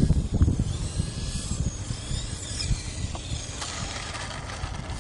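Wind buffeting the microphone, heaviest in the first second and then easing, with the faint whine of an electric RC aerobatic plane's motor rising and falling in pitch partway through.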